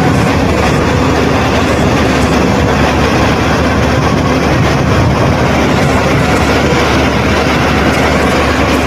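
Solar pile driver running at work: a loud, steady machine noise with a faint steady hum.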